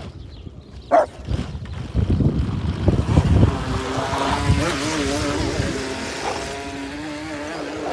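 Small battery-powered boat motor running with a steady, slightly wavering whine. Wind rumbles on the microphone beneath it.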